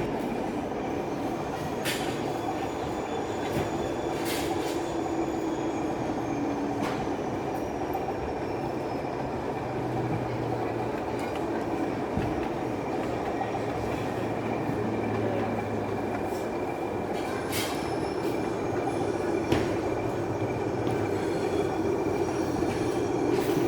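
Model railway train running on an exhibition layout: a steady running rumble with a faint high squeal and a few sharp clicks, as of wheels over rail joints and points.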